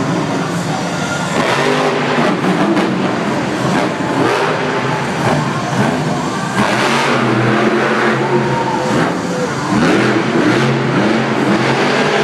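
Monster truck engines revving hard, the pitch climbing and dropping again and again.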